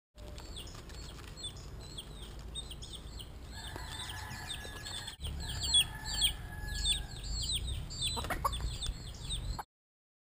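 Birds chirping: a quick, continuous run of short falling chirps over a low rumble.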